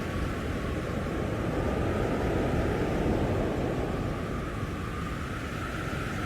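Blizzard wind blowing hard and steadily, a dense rushing noise with deep rumble that swells a little around the middle.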